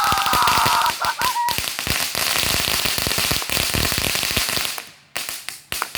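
Two backyard fireworks going off together with a dense, continuous crackling over a hiss for about four and a half seconds. The crackle then dies away, leaving a few scattered single pops near the end.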